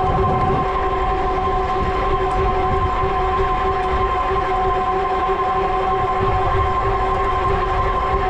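E-bike hub motor whining steadily under high pedal assist at about 23 mph, several even tones held over the low rumble of knobby fat tyres on pavement.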